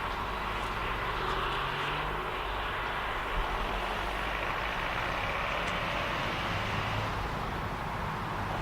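Steady vehicle engine noise with a low hum and a broad rushing sound, with no revving.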